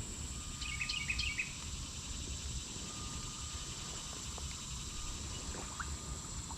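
Outdoor ambience: a steady high-pitched insect drone with a short bird call of a few quick chirping notes about a second in, over low background rumble.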